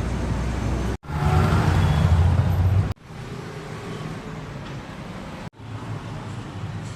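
KTM RC 200's single-cylinder engine running, in a series of short clips joined by abrupt cuts; it is loudest in the stretch from about one to three seconds in.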